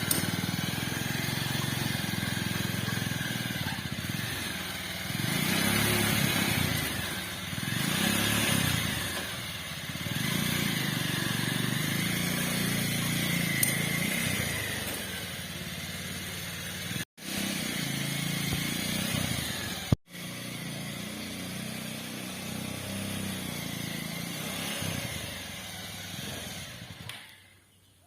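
Motorcycle engine of a homemade mini jeep running, swelling louder a few times as it revs. The sound cuts out abruptly twice and fades away near the end.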